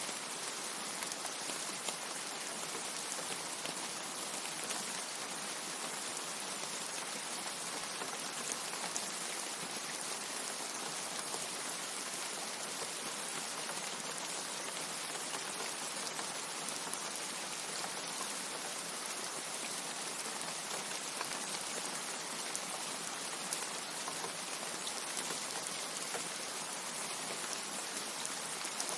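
Steady rain falling: a dense, even hiss of many drops, with no thunder.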